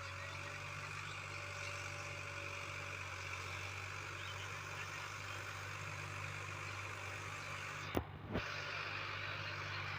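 Sonalika DI-50 RX tractor's diesel engine running at a steady speed, with two sharp clicks about eight seconds in.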